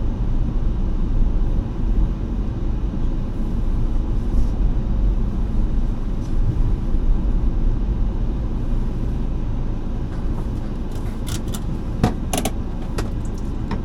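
A steady low rumble, with a few sharp clicks or rattles about eleven to thirteen seconds in.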